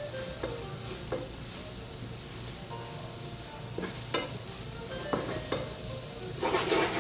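Onions and shiitake mushrooms sizzling in a frying pan while being stirred, the utensil knocking against the pan about six times, with a short stretch of scraping near the end.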